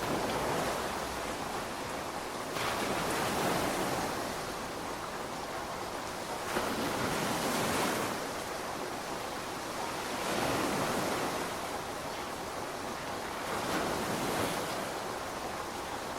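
Steady hiss of heavy rainfall, swelling and easing in surges about every three to four seconds.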